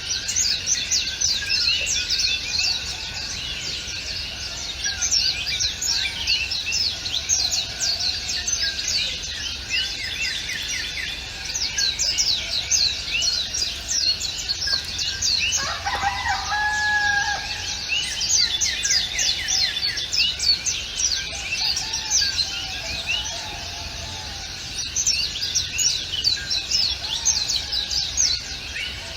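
Chorus of many small birds chirping and singing in rapid, overlapping high-pitched notes, with a separate lower call starting suddenly about halfway through and a few softer, lower warbling calls.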